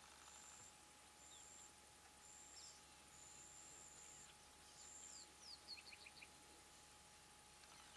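Near silence with faint distant birdsong: a high, thin whistled note repeated several times, with quick falling chirps and a short run of clipped notes about six seconds in.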